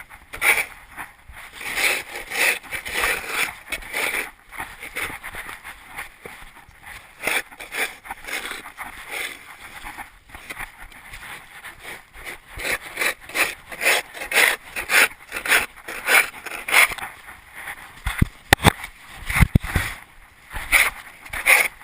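1/8-scale RC monster truck running over rough ground: an uneven rushing and rattling that surges and fades, with many short knocks. A cluster of heavier knocks comes near the end.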